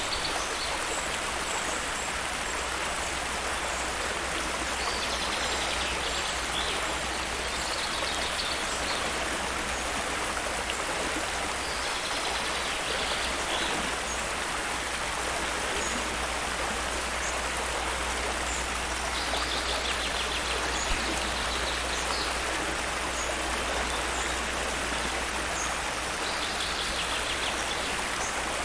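Steady rushing of a flowing stream, with a low rumble beneath. Songbirds break in with short, rapid trills about six times, a few seconds apart, and give faint high chirps in between.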